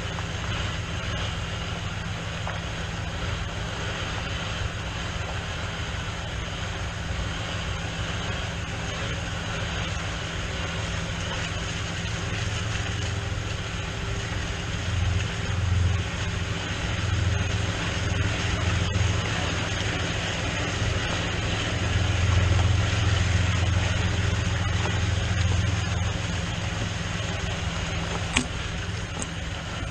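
Farm tractor engine running steadily under load, its low rumble swelling louder for a few seconds about halfway through and again later. A single sharp click comes near the end.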